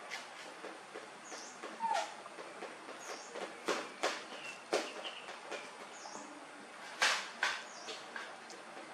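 Short high chirps of small birds every second or two, with scattered sharp clicks and taps; the loudest click comes about seven seconds in.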